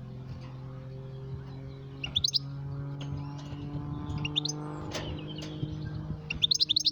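Goldfinch calling: three short bursts of quick, high twittering notes, about two seconds apart. A steady low hum runs underneath.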